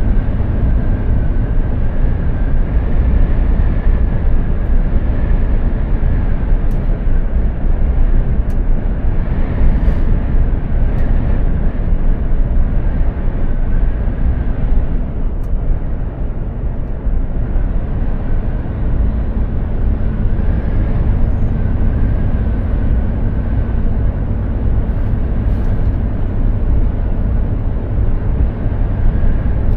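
Mercedes-Benz Actros 2763 truck driving at speed: its straight-six diesel engine and tyres on the road make a steady, deep rumble, with a faint high whine over it.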